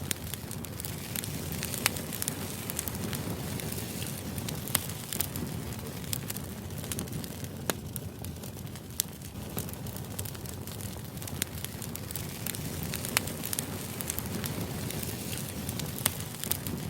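Crackling fire ambience: a steady low rumble of burning with scattered sharp crackles and pops every second or two.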